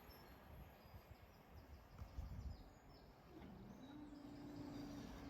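Near silence: faint outdoor ambience with a few faint bird chirps. Near the end a faint low tone glides up and then holds steady.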